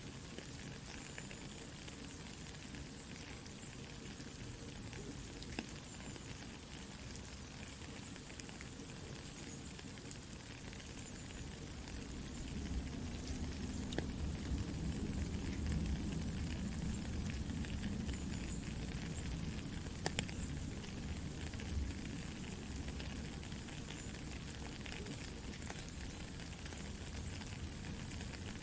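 Soft, steady rain hiss mixed with a campfire crackling in scattered sharp pops. A low rumble swells about twelve seconds in and eases off later.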